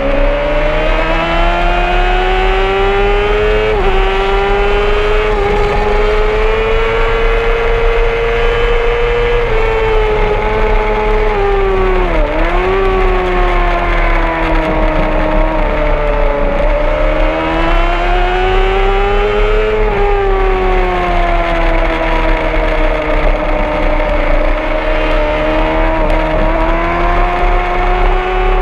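Honda CBR600RR's inline-four engine at high revs under hard riding. Its pitch climbs and falls with throttle and gear changes, with a sharp drop and recovery about twelve seconds in.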